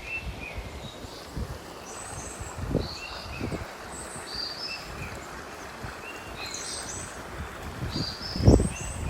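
Small birds chirping repeatedly, short high notes in little stepped runs, over a low rumbling noise that swells sharply about eight seconds in.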